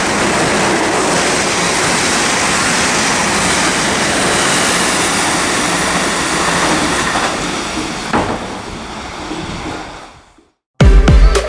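A train running through a station, a loud steady rushing noise that fades away from about seven seconds in and drops to silence. Electronic music with heavy bass cuts in near the end.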